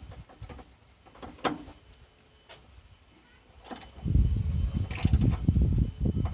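Sharp clicks and knocks of a hand tool and plastic parts being worked in a car's engine bay, then from about four seconds in a loud, low rumbling clatter of close handling noise.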